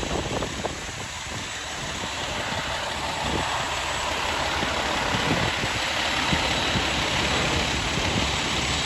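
A heavy vehicle's engine running at idle under a steady hiss, growing louder over the first few seconds and then holding; a few short knocks right at the start.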